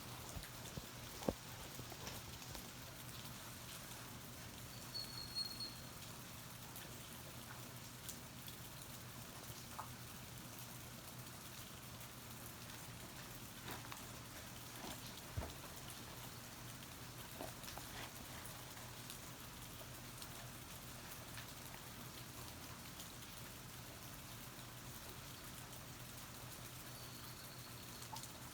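Light rain falling, a faint steady hiss with scattered drips landing close by. There is a brief high chirp about five seconds in and another near the end.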